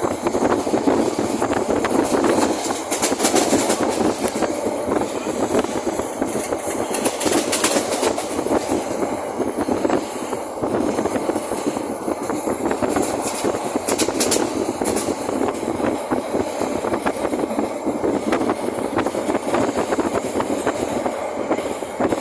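Passenger express train running along the track: a steady loud rumble of wheels on rails, with a dense rattle of clicks throughout.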